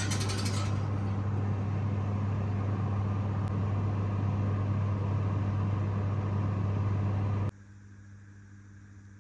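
A kitchen appliance running with a steady electric hum and a whirring noise, switching off abruptly about seven and a half seconds in.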